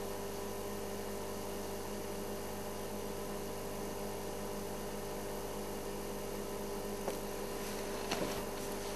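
A steady hum with several fixed tones over an even hiss, unchanging throughout, with a few faint clicks near the end.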